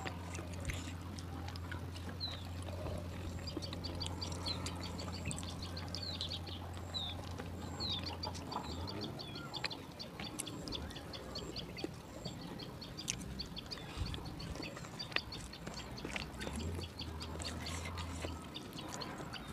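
Close-up eating sounds: chewing and mouth smacking on spicy noodles, rice and fish eaten by hand, with many small clicks. Birds chirp in the background, most in the first half.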